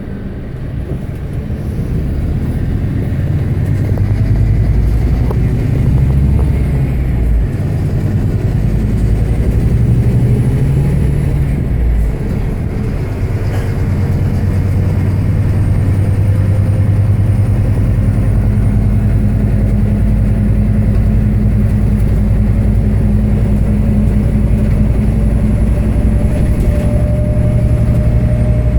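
Scania K320HB bus engine running under way, heard from inside the bus, with two brief breaks in the engine note about a quarter and two fifths in, then a long steady pull with a slowly rising drivetrain tone as the bus picks up speed.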